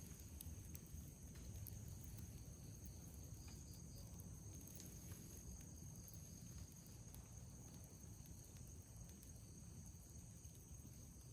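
Faint night insects, crickets trilling steadily in several high, unbroken tones, with a few soft scattered clicks from a campfire crackling.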